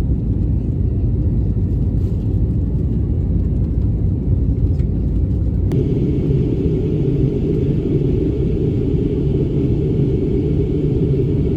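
Steady low rumble, loud and dense, with a sudden shift in its tone about six seconds in.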